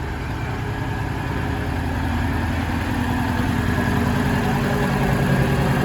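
Kenworth semi truck's diesel engine running at a low, steady speed, growing gradually louder.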